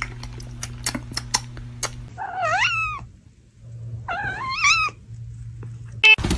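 A cat meowing twice, each meow just under a second long, the first rising in pitch; before them, a string of sharp clicks over a low steady hum.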